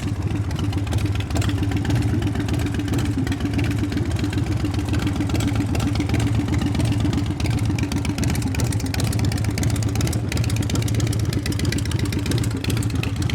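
S&S V-twin engine of an American Ironhorse LSC chopper, breathing through Vance & Hines pipes, idling steadily.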